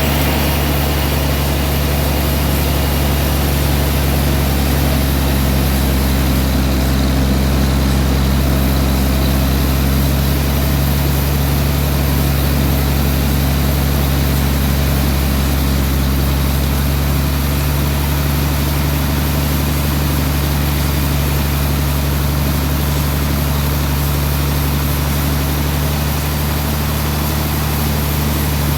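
Sawmill machinery running steadily, a constant low engine hum under an even noise with no breaks or changes.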